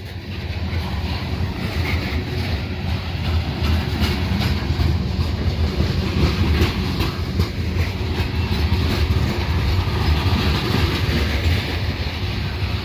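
Train rolling past at close range over the tracks: a steady heavy rumble of wheels on the rails with repeated clickety-clack of the wheels.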